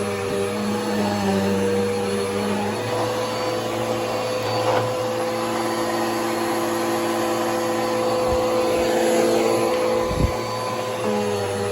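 Bissell PowerForce Helix upright vacuum cleaner running steadily. Its motor tone shifts about three seconds in and shifts back near the end, and there is a brief low thump about ten seconds in.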